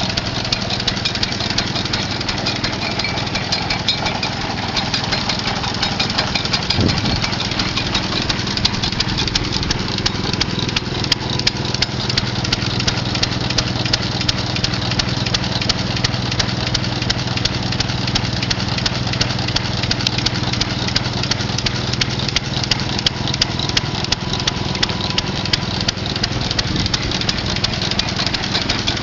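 Hit-and-miss stationary engine running, a fast, steady clatter of clicks over a constant low hum.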